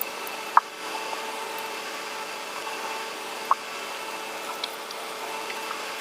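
Close-miked eating sounds: two short sharp mouth or food clicks, one about half a second in and one about three and a half seconds in, over a steady background hiss with a faint hum.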